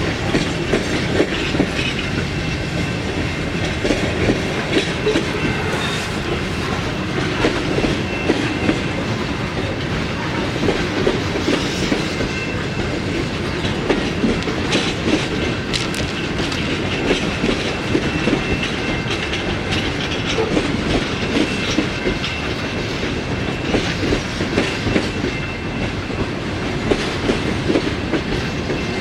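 Freight cars rolling past on the rails, their wheels clicking and knocking over rail joints in an unbroken, irregular clatter over a steady rumble.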